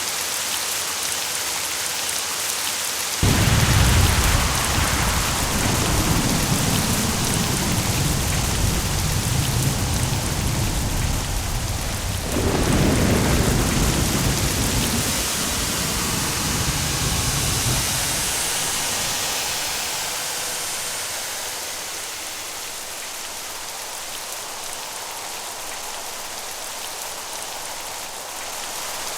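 Thunderstorm: steady rain hissing throughout, a sudden thunderclap about three seconds in, then a second crack about twelve seconds in, with low rolling thunder that dies away a few seconds later while the rain goes on.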